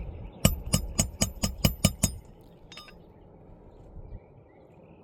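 Hammer driving a roofing nail into an asphalt shingle: about eight quick, ringing strikes in the first two seconds, then one more strike shortly after.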